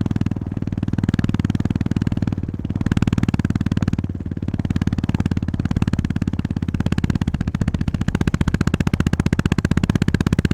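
Honda GB350S's air-cooled single-cylinder engine running under way, a fast even thumping with most of its weight low down. The engine note eases off briefly a few times.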